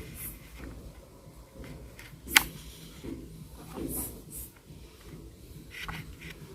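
Rear wheels being fitted onto a toy mixer truck by hand: handling sounds with one sharp click a little over two seconds in and a few softer clicks later.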